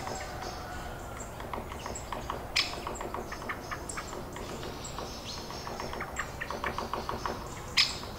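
Small birds chirping with many short, quick calls, and a sharp click about two and a half seconds in and another, the loudest sound, near the end.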